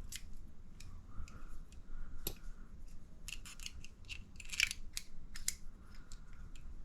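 Irregular light clicks and taps of small RC shock parts being handled and pressed together during assembly, with a brief cluster of sharper clicks about four and a half seconds in.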